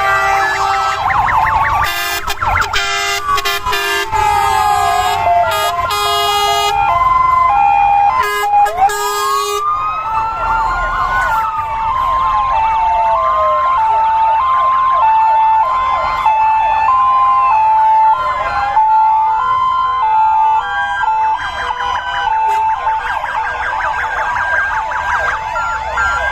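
Many fire engines' sirens sounding together, a dense mix of rising-and-falling wails and stepping two-tone sirens, with several short horn blasts in the first few seconds.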